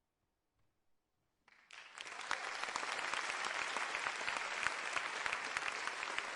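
Crowd applauding: after a second and a half of near silence, clapping starts and quickly builds to steady applause.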